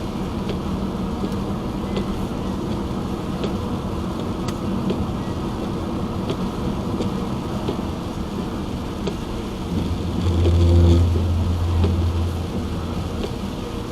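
Car driving on a wet road in rain: steady tyre and road noise with scattered light taps. About ten seconds in, a louder low engine drone swells for a couple of seconds, then fades.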